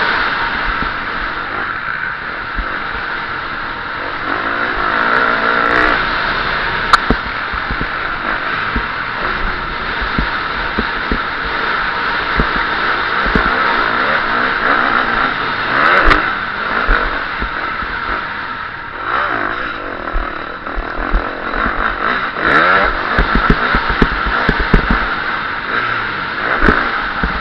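KTM 350 SX-F four-stroke single-cylinder motocross engine at racing speed, its pitch repeatedly rising and falling as the throttle is opened and shut, with short knocks and clatter throughout.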